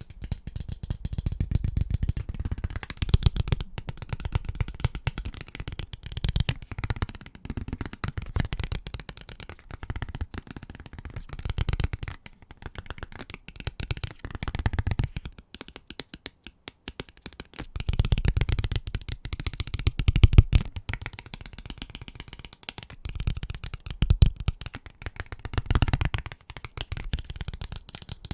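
Fingers and nails tapping very fast on household objects: a dense run of many taps a second with heavier thuds underneath, coming in stretches that swell and ease every few seconds.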